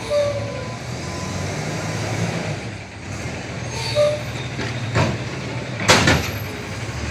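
CNG front-loader garbage truck running, with brief squeals and two sharp bangs, the second one louder, about five and six seconds in.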